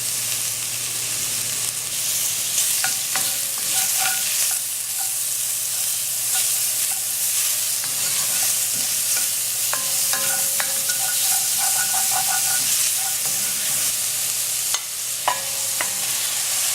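Garlic, mushrooms and onions sizzling in oil and melted butter in a pan while being stirred, with a steady frying hiss. A spoon scrapes and clinks against the pan a few times, most around the middle.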